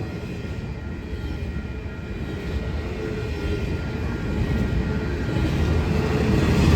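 Union Pacific freight train led by GE diesel-electric locomotives approaching, its low engine and rail rumble growing steadily louder.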